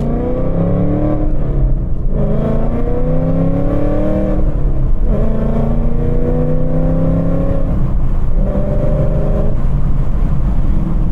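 Ford Mustang GT S650's 5.0 V8 with Kooks longtube headers accelerating hard through the gears. The engine note rises three times, with a quick drop at each gear change, then settles into a steady cruise.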